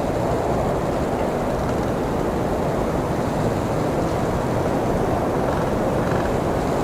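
Blizzard wind blowing steadily, a low, even rush with no gusts standing out.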